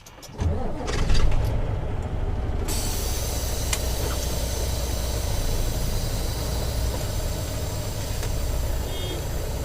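Semi truck's diesel engine running as the truck drives, a steady low rumble heard from inside the cab that sets in about half a second in.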